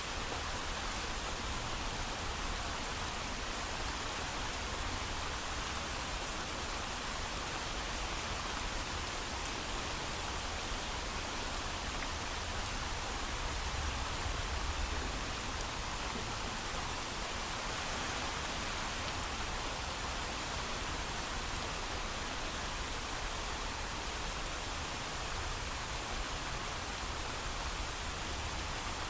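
Steady heavy rain falling without thunder, an even hiss with a low rumble beneath and no separate drops or gusts standing out.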